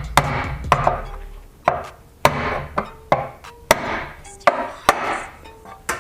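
Hand tools knocking and scraping against metal parts of the engine during timing-chain work: about nine sharp, irregularly spaced knocks.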